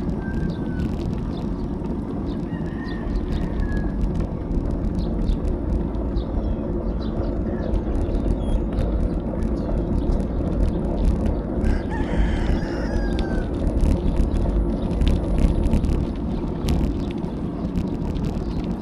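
Steady low rumble of wind and road noise from riding a bicycle. Roosters crow faintly a couple of times, most clearly about twelve seconds in.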